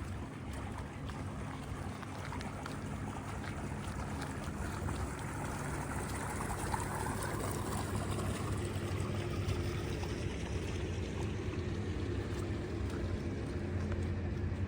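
Steady rain hiss with running water, under a low steady engine hum that grows a little louder about five seconds in.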